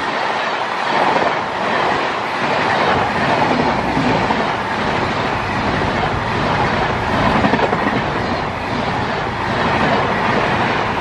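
Indian Railways express train's passenger coaches passing close by at about 110 km/h: a steady, loud noise of wheels running on the rails.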